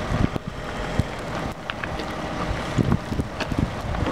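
Wind buffeting the microphone with low rumbling thumps, over which a small bird gives a few brief high chirps.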